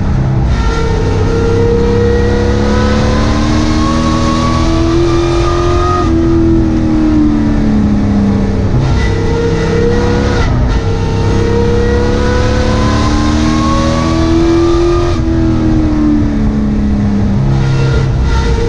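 Sport truck race engine heard from inside the cab at racing speed, its pitch climbing steadily for about six seconds and then dropping off for a couple of seconds, twice over, as the truck accelerates down the straights and lifts for the turns.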